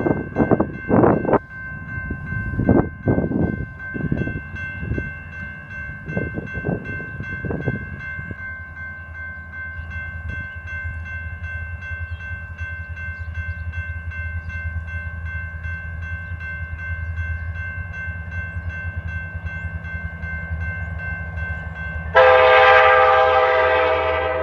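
Diesel freight locomotive approaching with a low steady engine rumble, then sounding its air horn loudly and suddenly about 22 seconds in. A grade-crossing bell rings steadily throughout, and a series of loud gusts of noise comes in the first several seconds.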